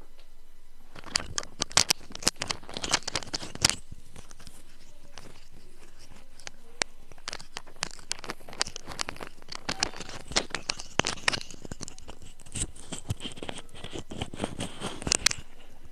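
Handling noise close to the microphone: irregular rustles and clicks, starting about a second in and stopping just before the end.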